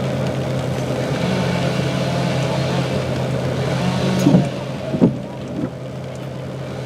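Car running, heard from inside the cabin: a steady low engine hum over road noise, with two short louder sounds about four and five seconds in.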